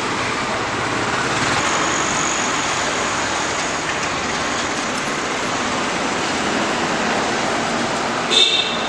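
Roadside traffic noise: a steady wash of passing vehicles, with a short, sharp high-pitched sound near the end.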